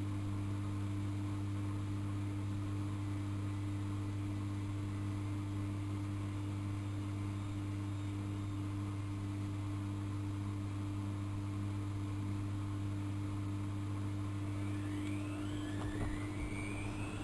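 AEG Lavamat L6461 washing machine running during a 95°C boil wash: a steady low hum, with a rising motor whine starting near the end as the drum motor picks up speed.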